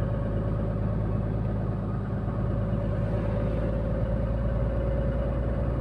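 KamAZ 4308 truck's diesel engine running steadily, heard from inside the cab as a constant low drone with a steady whine over it.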